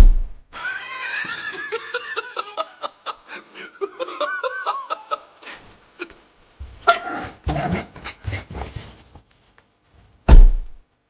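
A person laughing, with a loud thump near the end.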